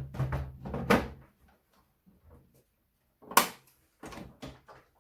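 Clattering knocks and clunks of computer parts being handled and set down during disassembly, with one sharp, loud knock about three and a half seconds in.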